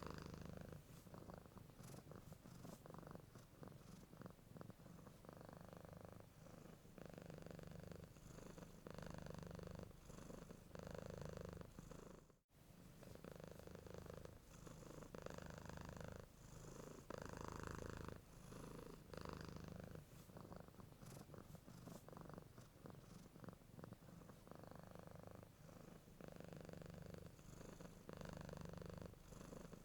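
Domestic cat purring, a low rumble that swells and eases in a regular rhythm with each breath in and out. It cuts out for an instant about twelve seconds in.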